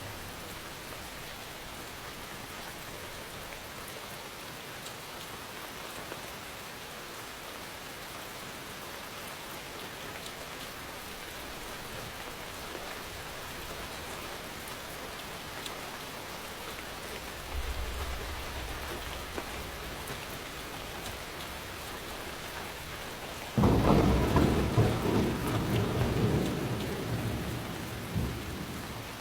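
Steady rain falling. A low rumble of thunder comes in about two-thirds of the way through, then a sudden loud thunderclap about 24 seconds in, rumbling and fading over several seconds.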